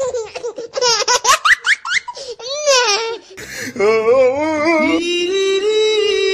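High-pitched giggling laughter in quick rising bursts for about three seconds. It gives way to a wavering voice, and music begins about five seconds in.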